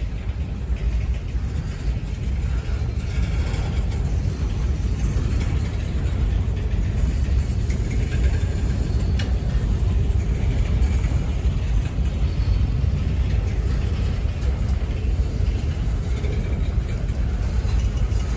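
Freight cars of a CSX manifest train rolling past with a steady low rumble.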